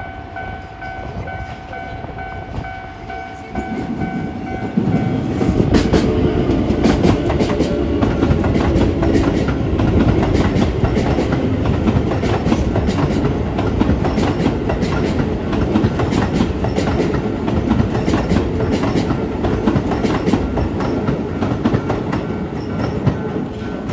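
Level crossing warning alarm ringing with a steady two-tone sound, then, from about five seconds in, a Keisei 3700 series electric train passes over the crossing, loud, its wheels clattering rapidly over the rail joints.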